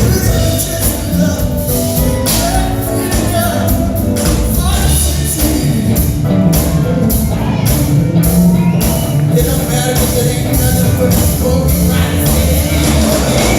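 Live band playing loud, steady music, with a singing voice over bass and regular drum hits.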